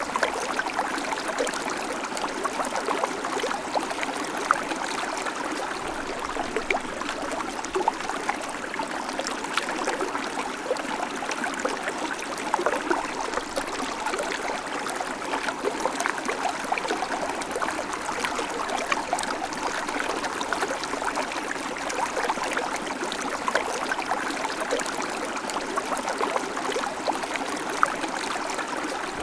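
Babbling creek: water flowing steadily over stones with a constant trickling and splashing.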